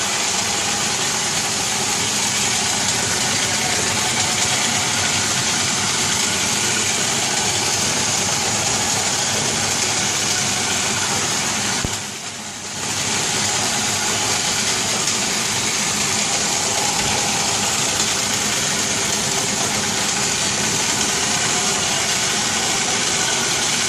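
iRobot Roomba Discovery 4210 robotic vacuum running, a steady motor whir with a high whine, briefly quieter for about a second near the middle.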